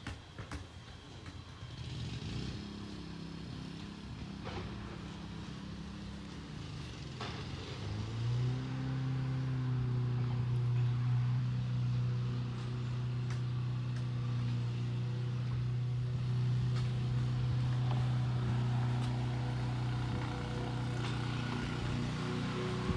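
Peterbilt 320 refuse truck's engine running steadily. About eight seconds in it rises to a higher, louder speed and holds there almost to the end.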